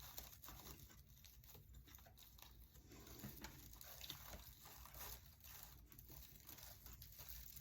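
Near silence, with faint rustling and small ticks of raffia being handled and pressed into place.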